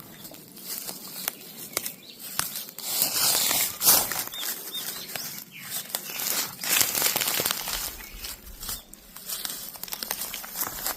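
Dry leaves and undergrowth rustling and crackling, with irregular small snaps and tearing sounds, as of someone moving through brush and breaking off plant stems.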